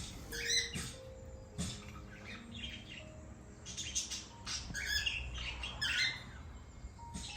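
Cockatiels chirping and squawking in a string of short, repeated calls, with the loudest about half a second in and a busier run between about four and six seconds.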